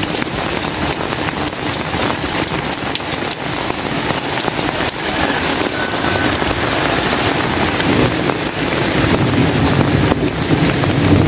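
Heavy rain falling steadily, with a dense patter of drops. A low rumble builds over the last few seconds.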